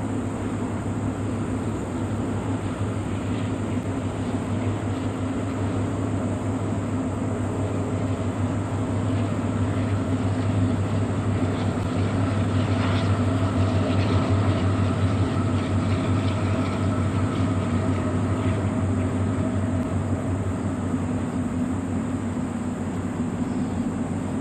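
Union Pacific train running across a high steel railway viaduct: a steady rumble with a low hum that swells a little around the middle, with a few brief sharper sounds in the middle.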